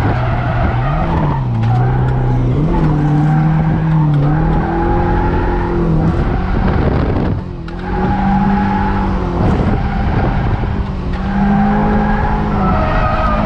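Toyota KE70 Corolla's 7A-GE four-cylinder engine revving hard, heard from inside the cabin while drifting, its pitch rising and falling with the throttle over the hiss of skidding tyres. The engine note briefly drops away about halfway through.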